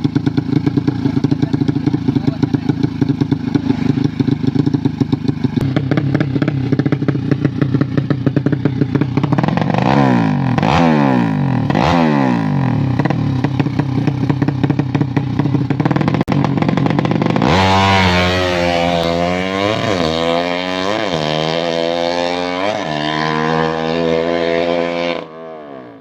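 Carburetted motorcycle engine idling with a fast, choppy beat, then revved by the throttle during carburettor tuning: a few short blips, then, from a bit past halfway, a louder run of revs rising and falling about once a second, which drops off sharply near the end.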